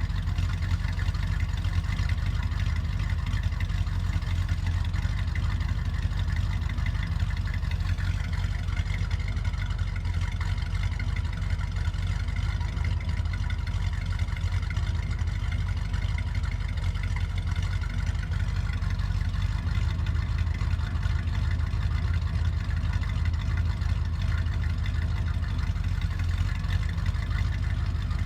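1965 Chevrolet Impala's 283 small-block V8 idling steadily, heard through its exhaust.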